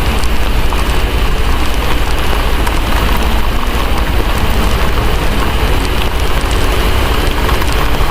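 Steady heavy rain mixed with a crackling fireplace, small crackles scattered through the even hiss, over a steady deep rumble.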